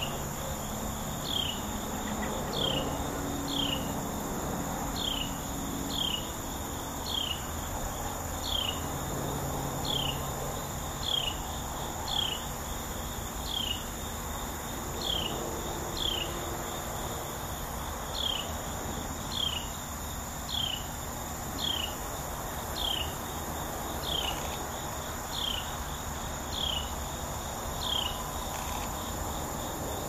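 A small bird repeating a short, high, downslurred call note about once every second and a bit, over a steady high-pitched drone of insects.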